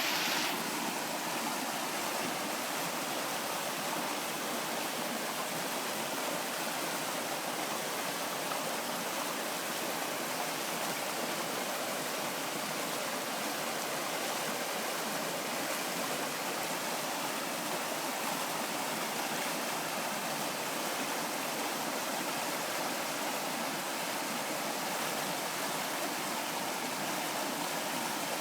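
Waterfall on a creek: water falling and rushing in a steady, unbroken roar of noise.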